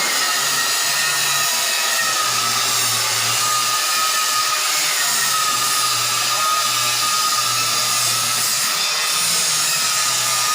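A machine running steadily: a continuous rushing noise with a slightly wavering high whine over a low hum.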